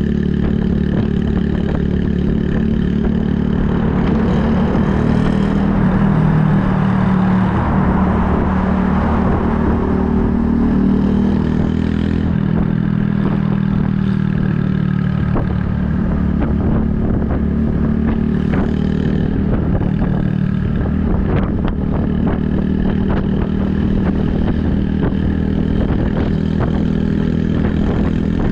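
Honda Super Cub 110's air-cooled single-cylinder four-stroke engine running steadily at cruising speed through an aftermarket Kitaco mini Caborn muffler. A rushing sound swells about four seconds in and fades by about ten seconds in.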